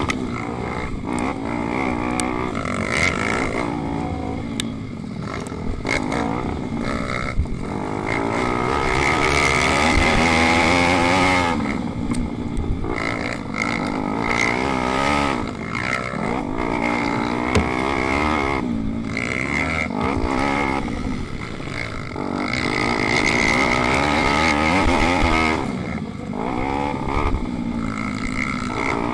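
Pit bike engine revving up and down over and over as it accelerates and slows, the pitch climbing and dropping every few seconds.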